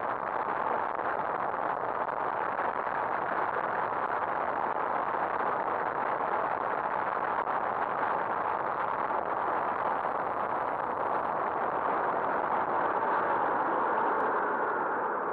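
Steady rushing wind and road noise from a moving motorcycle, with no engine note standing out.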